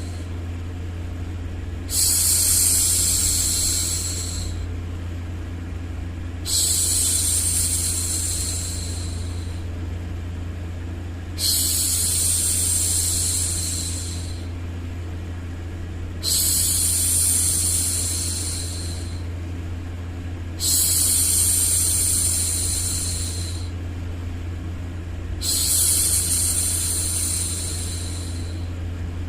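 A woman's long 'shhh' hushing sounds, repeated about every four and a half seconds, six in all, each lasting about two and a half seconds and trailing off. Underneath runs a steady low rumble of background noise.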